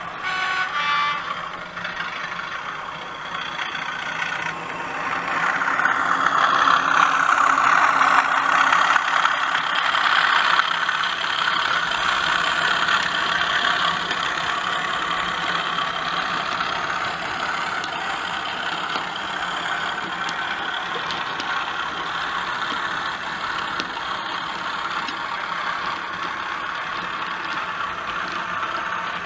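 Sound-fitted OO gauge model diesel locomotive, its DCC sound decoder playing a diesel engine running through the model's small speaker. The engine noise builds about five seconds in, then settles to a steady run.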